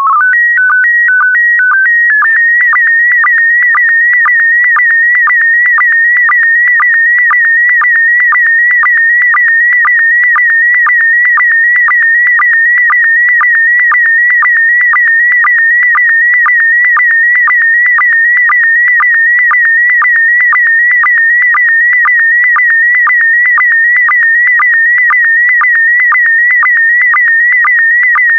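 SSTV PD120 image transmission. It opens with a short run of stepped header tones, then about two seconds in settles into the scanning signal: a high warbling tone broken by a regular sync pulse about twice a second.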